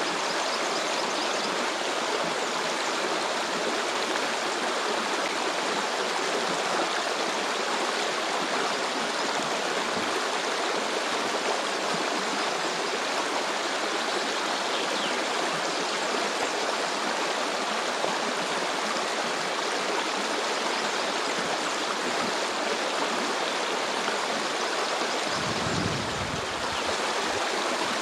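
A small stream flowing and splashing over stones, a steady even rush of water. A low rumble joins it near the end.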